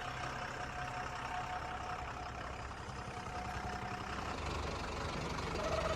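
A motor running steadily at low level: a low hum with a faint steady whine above it, the low hum shifting about four seconds in.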